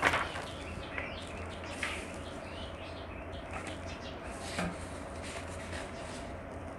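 Faint, scattered bird chirps over a steady low hum, after a sharp click right at the start.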